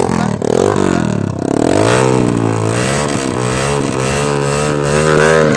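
Motorcycle engine revving: the pitch falls over the first second or so, rises again at about two seconds, then holds with a slight waver.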